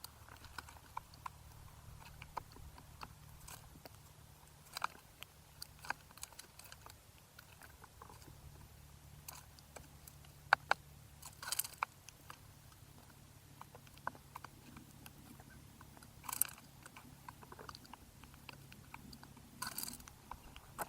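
Birds pecking and cracking seed at a feeder close to the microphone: irregular small clicks and crunches, with a few louder pecks scattered through, over a faint steady low hum.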